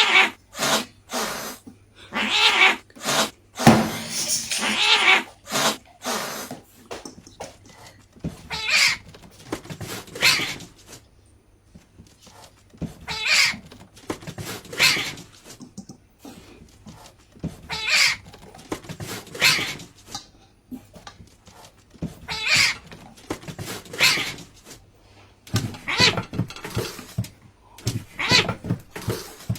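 A cat meowing over and over, one call every second or two with short pauses between.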